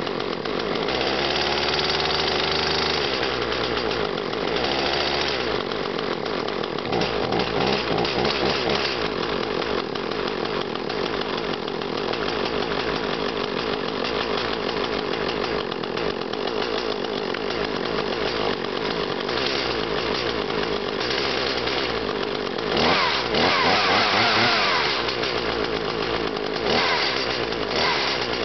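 Echo CS-400 two-stroke chainsaw running right after a cold start, its pitch settling slightly in the first few seconds and then holding steady at idle. It is revved up, louder, around 23 seconds in, and briefly again near the end.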